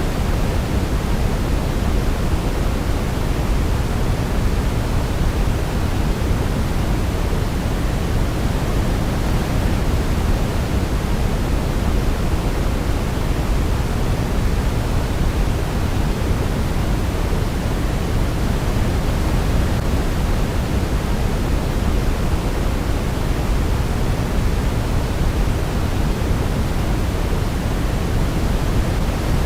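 Steady sleep noise, a constant even hiss weighted toward the low end like pink noise, with no audible melody over it.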